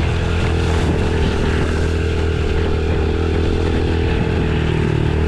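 Honda CRF110 dirt bike's small single-cylinder four-stroke engine running at a steady, even speed.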